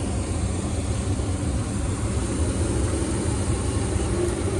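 A steady low mechanical drone, several low tones held without a break.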